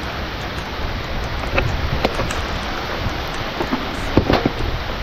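Steady hiss of water, like rain or flowing floodwater, with a low rumble underneath and a few light knocks scattered through it.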